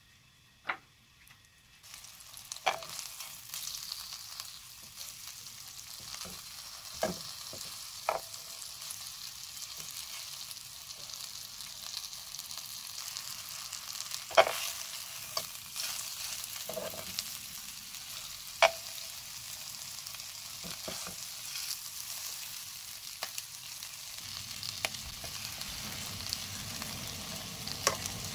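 Egg-battered squid pieces sizzling in hot oil in a wok, the sizzle starting about two seconds in and running steadily. Metal tongs click and tap against the pan now and then, the sharpest taps about halfway through.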